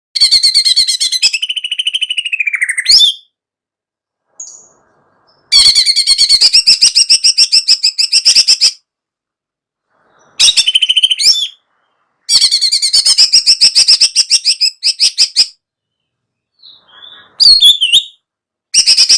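Recorded songbird song: fast, chattering trills of rapidly repeated notes in loud bursts of one to three seconds, separated by pauses of silence.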